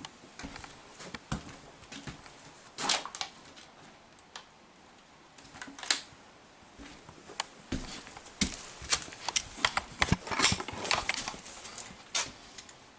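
Irregular clicks, taps and light clatter of plumbing parts and tools being handled, growing busier in the second half.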